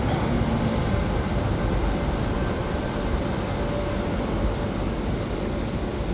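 Passenger train pulling out of a station: a steady rumble of wheels and running gear, easing slightly as it moves away, with a faint whine over it.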